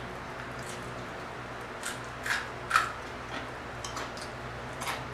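Chewing a mouthful of crispy fried croaker fish: a few sharp, irregular crunches and smacks over a steady low hum.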